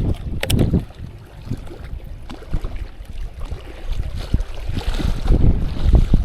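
Wind buffeting the microphone in uneven gusts, louder toward the end, with a couple of sharp clicks about half a second in.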